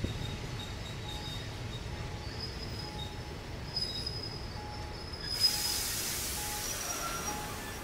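Passenger train carriage running along the track: a steady low rumble of wheels on rails, with faint on-and-off high squeals from the wheels. About five seconds in, a sharp knock opens a loud hiss that carries on to the end.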